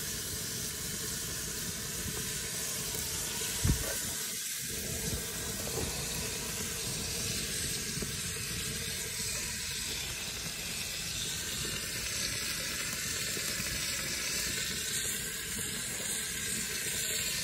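Kefir-marinated rabbit pieces sizzling in hot oil in a cast-iron kazan over a wood fire: a steady hiss, with a single short knock a little under four seconds in.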